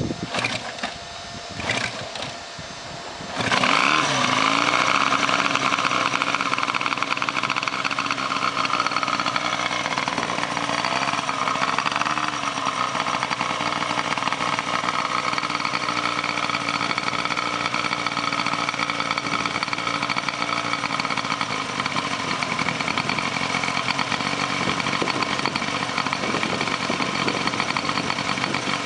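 1929 Scott motorcycle's two-stroke twin engine being started: a few irregular knocks, then it catches about three and a half seconds in, revs briefly and settles into steady running.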